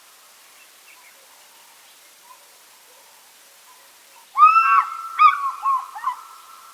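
African fish eagle calling: about four seconds in, one long arched note followed by about four shorter notes in quick succession.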